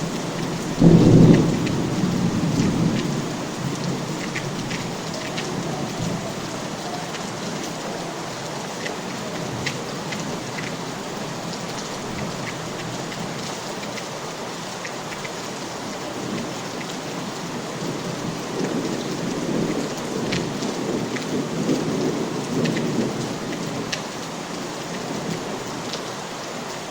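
Steady rain with scattered drips, with a loud clap of thunder about a second in that rumbles off over a couple of seconds, and more low thunder rumbling later on.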